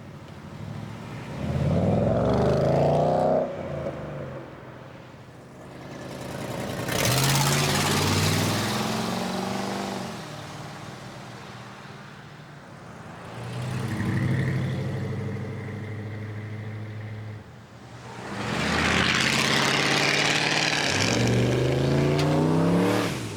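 Car engines revving hard as cars accelerate away one after another: four loud bursts, the pitch climbing in each, the last one rising again partway through as the car pulls through its gears.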